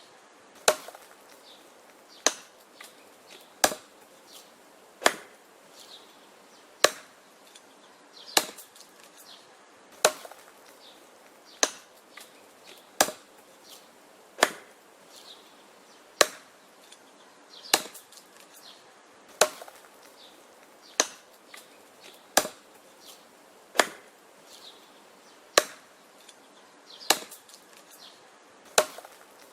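Axe chopping wood: sharp, even strikes about every one and a half seconds, some followed by a fainter knock.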